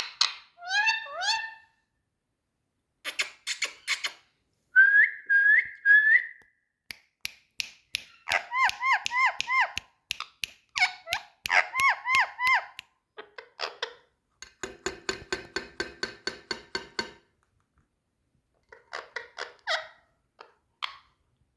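Indian ringneck parakeet calling in short bursts: rising whistled notes, quick runs of repeated chirps and clicks, and a harsh, raspy chatter lasting a couple of seconds about two thirds of the way through.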